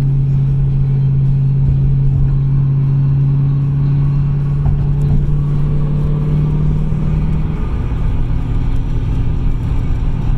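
A Mustang's engine droning steadily at cruising speed over low road rumble. The steady drone fades about seven and a half seconds in, leaving the rumble.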